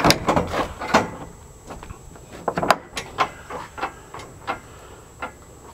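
A fence gate's new latch and hinges being worked: a series of sharp clicks and knocks, loudest right at the start and again about two and a half seconds in.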